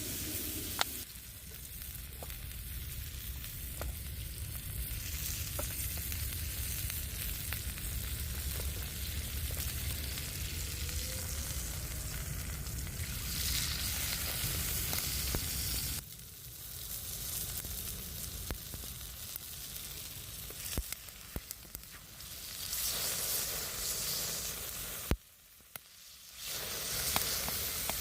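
Food sizzling as it fries in a pan, with scattered small pops and crackles. The sizzle drops and changes abruptly a few times, about a second in, around the middle and near the end.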